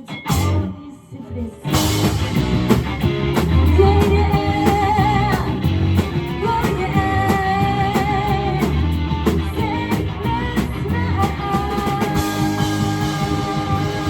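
Rock band playing live with guitar, drum kit and a singer. The band drops out briefly at the start and comes back in together after a second and a half, and the singer holds long notes with vibrato over it.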